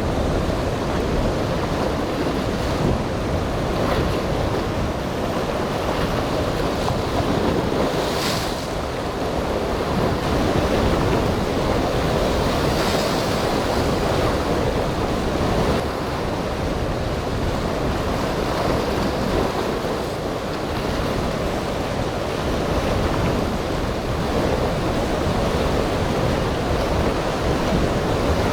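Steady rush of ocean surf and rough inlet water, with wind buffeting the microphone. A faint brief hiss rises over it about eight seconds in.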